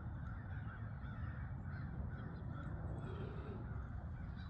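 Birds calling outdoors: short calls repeating several times a second over a steady low rumble.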